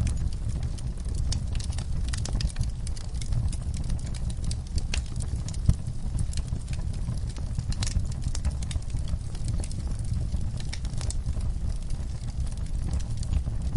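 Wood fire burning in a fireplace: a steady low rumble of flames with frequent sharp crackles and pops scattered through it, one louder pop a little before the middle.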